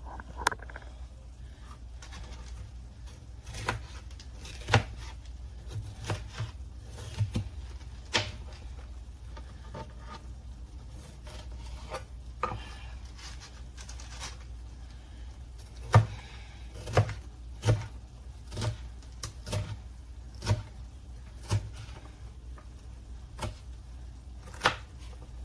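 Kitchen knife cutting a red bell pepper on a cutting board: irregular sharp knocks, some a second apart and some with long gaps, coming closer together about two-thirds of the way through. A steady low hum runs underneath.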